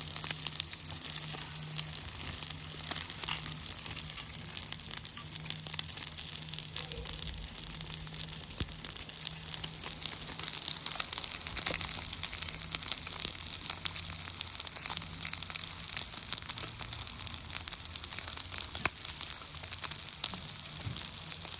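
Steak sizzling and crackling in its fat on a 6 mm thick steel griddle plate, a steady stream of fine pops and spatters. A low steady hum runs underneath.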